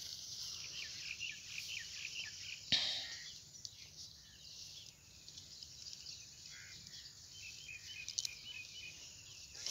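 Birds chirping in quick repeated short calls over a steady outdoor hiss. A single sharp knock comes near the third second.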